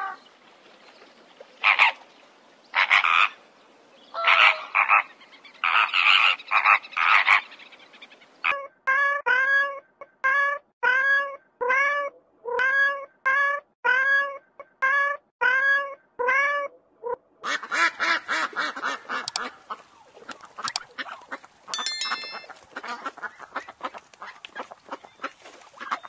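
A run of animal calls. First flamingos honking in short bursts. Then a cat meowing over and over, a little faster than once a second, each meow rising and falling. Then a rapid stream of duck quacks and chatter.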